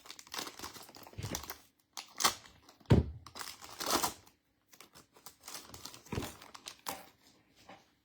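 Foil trading card pack wrapper crinkling and tearing as it is ripped open and handled, in irregular rustles and sharp crackles.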